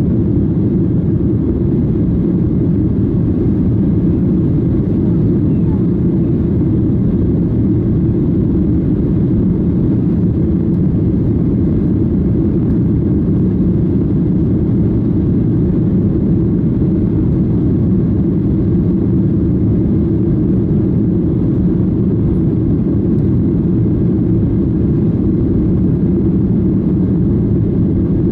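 Steady low rumble of a Boeing 737-800's engines and airflow, heard inside the passenger cabin; it holds an even level throughout.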